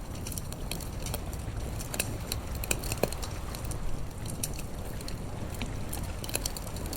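Wood fire crackling, with irregular sharp pops and snaps over a steady low rumble; one of the louder pops comes about three seconds in.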